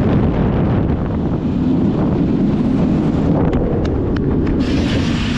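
Wind buffeting the camera microphone on a moving roller coaster: a steady, heavy rush, with a few short sharp cracks a little past halfway through.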